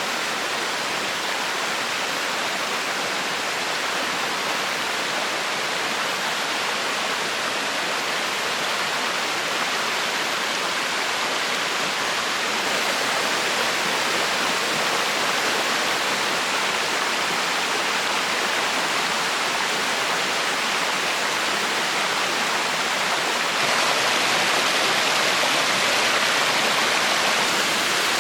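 River water rushing in a steady noise that gets a little louder about halfway through and again near the end.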